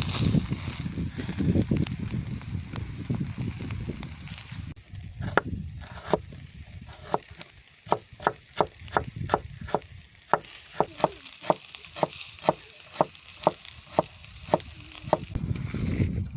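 A few seconds of low rustling and handling noise, then a knife chopping steadily on a cutting board, about two and a half sharp knocks a second for some ten seconds, stopping shortly before the end.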